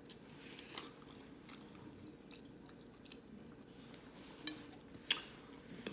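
Close-up chewing of a soft jackfruit nugget, with scattered wet mouth clicks and a sharper click about five seconds in.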